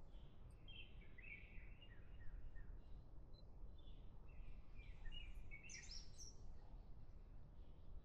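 Faint bird chirps, a run of short high notes with a brighter, higher chirp about six seconds in, over a steady low background rumble.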